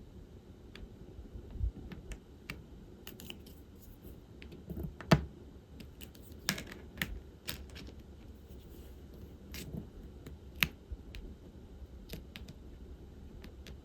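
Irregular small clicks and taps of diamond-painting work: plastic tools and resin drills tapping on the tray and canvas. One sharper knock about five seconds in is the loudest.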